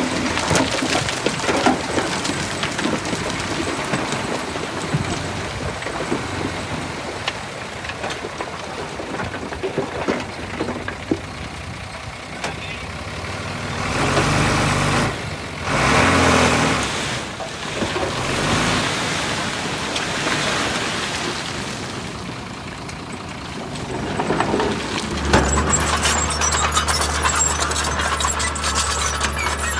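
Heavy construction machinery, dump trucks and a bulldozer, running continuously. Loud rushing bursts come about halfway through, and a steady low engine hum sets in near the end.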